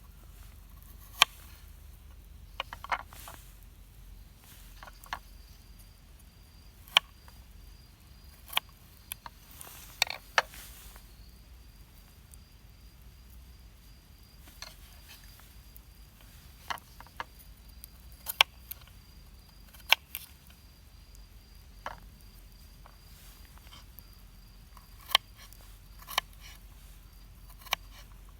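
Wood campfire crackling, with irregular sharp pops, some of them loud, scattered a second or two apart.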